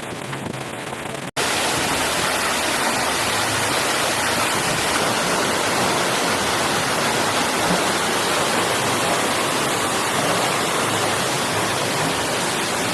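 Water rushing steadily through a canal lock's sluices. The noise cuts out for an instant about a second in, then goes on louder.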